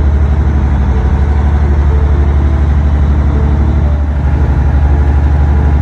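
Boat engine running steadily under way: a loud, deep drone that pulses rapidly.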